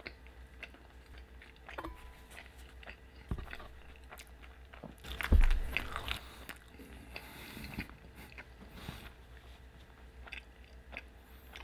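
Close-miked chewing and wet mouth sounds of a man eating a shrimp burrito in a soft flour tortilla, with small clicks and smacks throughout. About five seconds in there is a single louder thump.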